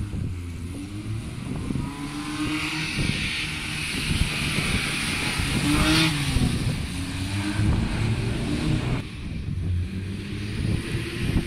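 Classic rally car's petrol engine revving as the car accelerates and drives close past, its pitch rising and then falling as it goes by about six seconds in. Another car's engine comes in near the end.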